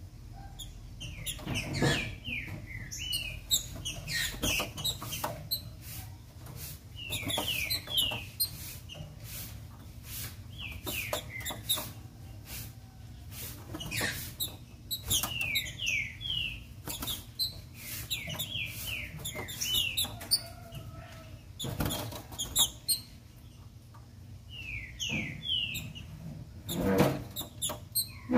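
Green-winged saltator (trinca-ferro) calling: short falling notes in quick groups of three or four, repeated every few seconds. Scattered sharp clicks and knocks run between the calls.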